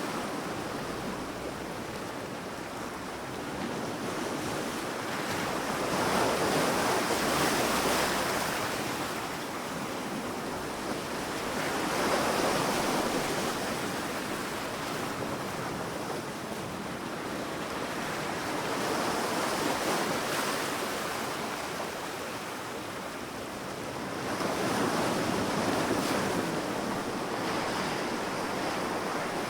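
Sea waves breaking on a sandy shore: a steady wash of surf that swells four times, about every six seconds, as each wave comes in and then ebbs.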